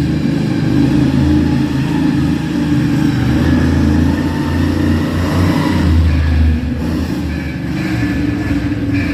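Monster truck engine running with a loud, deep rumble, easing off a little about two-thirds of the way through.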